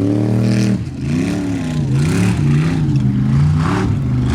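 Formula Offroad hill-climb buggy's engine revving hard in repeated bursts. The pitch climbs, holds and drops several times as the throttle is worked.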